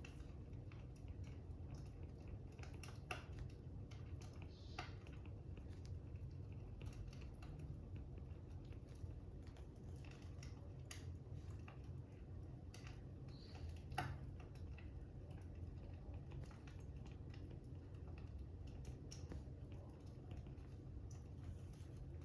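Faint fire crackling: irregular small pops and clicks over a steady low rumble, with one sharper pop about two-thirds of the way through.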